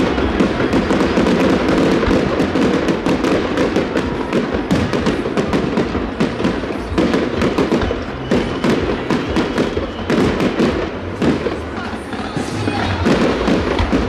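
Aerial fireworks bursting overhead: a rapid, continuous run of bangs and crackles.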